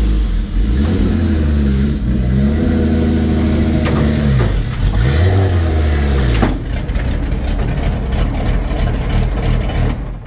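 A Porsche 911 race car's engine revving up and down in short throttle blips as the car climbs the trailer ramps, then settling to a steadier run about two thirds of the way through.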